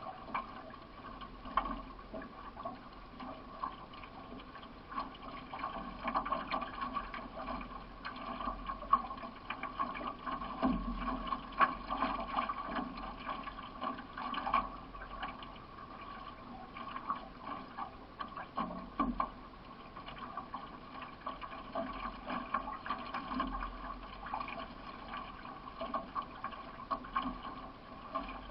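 Water splashing and gurgling around a solo racing canoe under way, with the irregular splashes of paddle strokes in the water.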